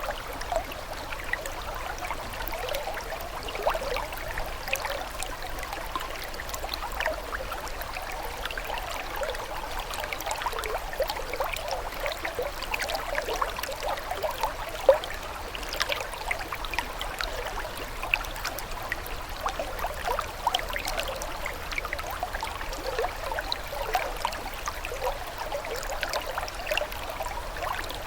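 Small stream of water trickling and gurgling steadily, with many quick little splashes.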